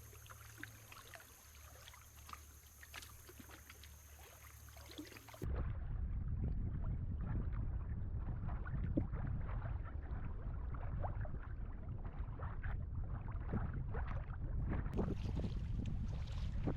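Kayak paddle dipping and dripping in the water, faint at first. About five seconds in it turns louder, with wind rumbling on the microphone under the paddle splashes.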